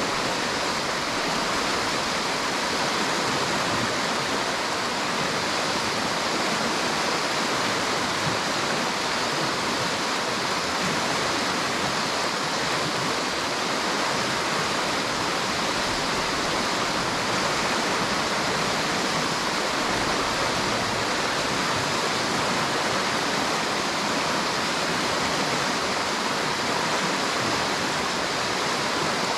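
River water rushing and splashing steadily, an even, continuous hiss of flowing water with no change throughout.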